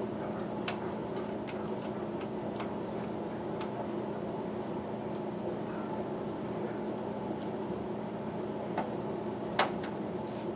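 Steady machine hum, with scattered light clicks and taps from handwork with small parts and tools. The sharpest tap comes about nine and a half seconds in.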